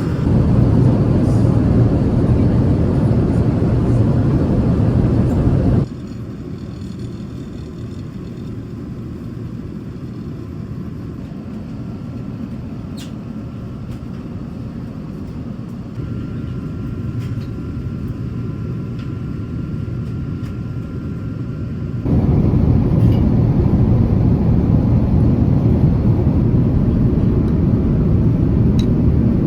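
Steady in-flight cabin noise of an Airbus A350-900 airliner: a low rumble of engines and airflow. It drops suddenly to a quieter stretch about six seconds in, then returns to full loudness about twenty-two seconds in.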